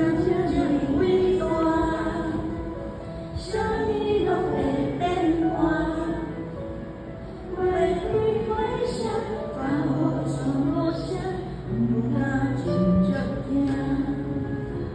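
A woman singing a song in phrases over instrumental accompaniment.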